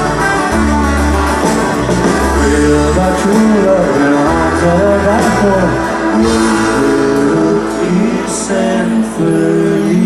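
Band music: guitar and bass playing a song, with singing voices in the mix.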